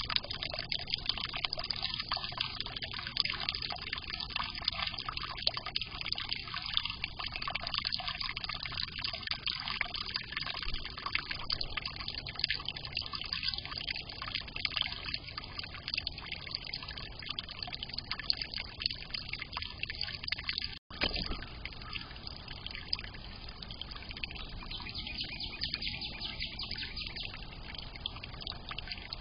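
Water from a small fountain trickling and splashing steadily. It drops out for an instant about two-thirds of the way through.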